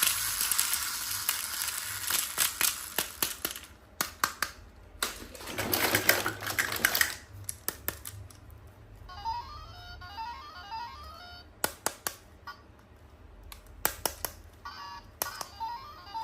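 Hissing and clicking from toys being handled, then a short repeating electronic beeping tune from about halfway through, with sharp clicks in between.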